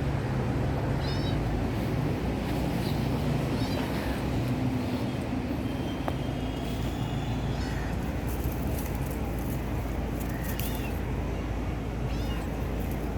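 A cat mewing: about six short, high-pitched meows spaced a second or more apart, over a steady low rumble.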